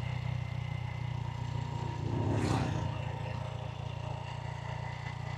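Small motorbike engine running steadily under way, with a brief louder swell about two seconds in.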